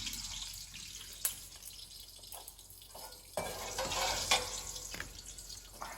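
Water running and splashing, as at a tap or basin, with a few sharp knocks of kitchenware.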